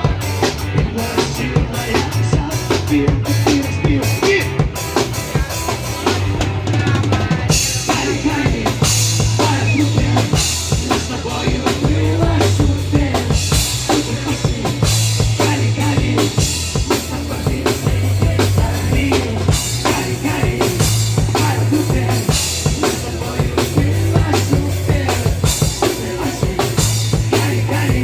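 Band music with a drum kit keeping a steady beat over a bass line that holds long notes.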